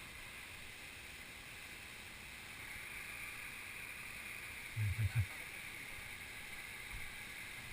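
Steady rush of a waterfall heard from a distance, with a few brief low bumps about five seconds in.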